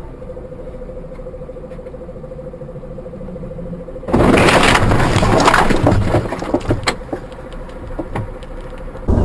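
Car road noise heard through a dash-cam microphone with a faint steady hum, then about four seconds in a sudden loud crash: a burst of impact noise with rattling and knocks that die away over a few seconds.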